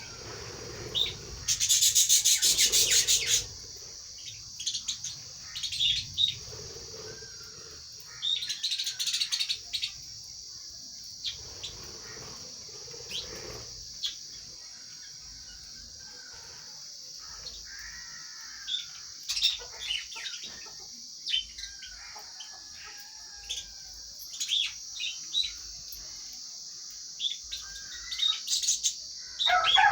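Lovebirds chirping and chattering in short calls, with two loud bursts of rapid, harsh chatter, one a second or two in and another about nine seconds in.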